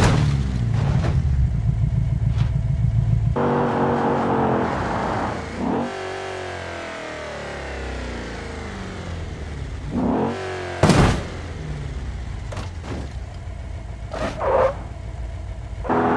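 Car engines running and revving, the pitch rising and falling, broken by sudden sharp bangs of collisions, the loudest about eleven seconds in.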